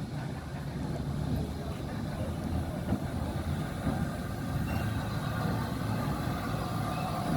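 Steady low rumble of a heritage railway locomotive running, growing slightly louder.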